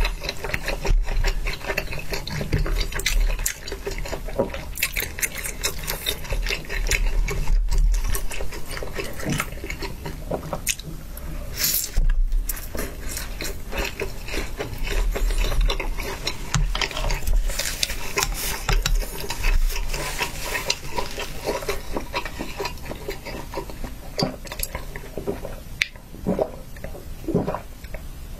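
Close-miked wet chewing of hot pot food: a steady run of squishy mouth clicks and smacks. Near the end, sips of a drink through a straw.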